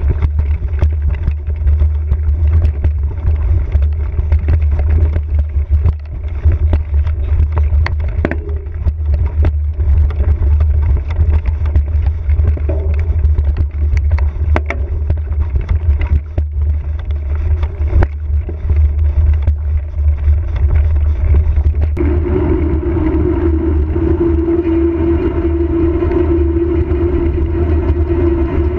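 Riding noise from a Giant Trance X 0 29er mountain bike on a trail: a heavy low rumble of wind on the microphone, tyres rolling, and frequent sharp clatters as the bike rattles over rocks and roots. About two-thirds of the way through, a steady hum joins in and holds to the end.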